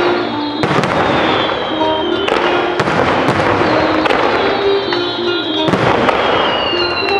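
Fireworks display: dense crackling and repeated bursts of aerial shells going off in quick succession, with music playing alongside.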